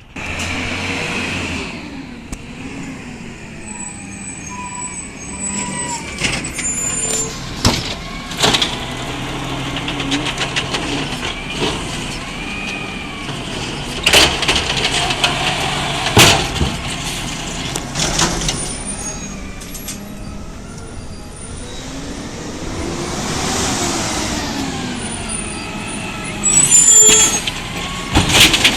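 Garbage truck working its recycling route: engine running under air-brake hisses, with several sharp knocks and bangs over half a minute.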